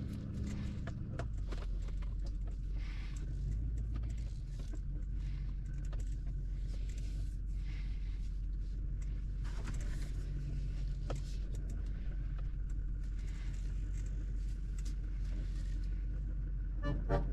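A tractor engine running steadily, with scattered metallic clinks and scrapes over it.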